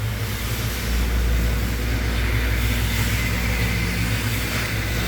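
A steady, low mechanical hum that runs evenly throughout, with a constant hiss above it.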